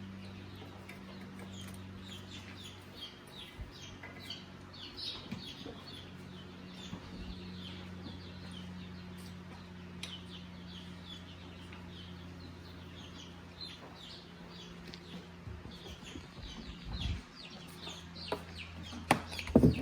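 Birds chirping, many short quick falling chirps repeated throughout, over a steady low hum. A few sharp clicks and knocks near the end are the loudest sounds.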